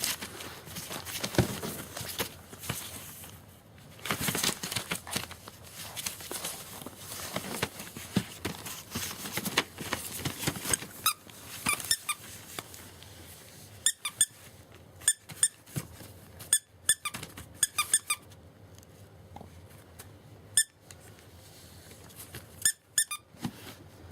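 Short, high-pitched squeaks coming in quick clusters several times, over rustling and scuffling from German Shepherd puppies at play.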